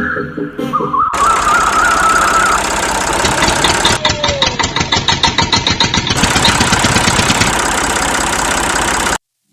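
A motor running with a fast, even rattle, starting about a second in after a moment of music and cutting off suddenly near the end.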